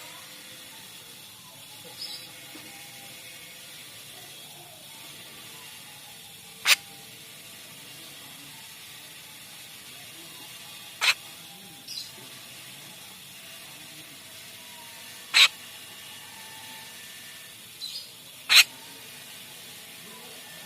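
Jalak rio-rio starling giving single short, sharp calls about every four seconds, four in all, with fainter quick chirps between them over a steady background hiss.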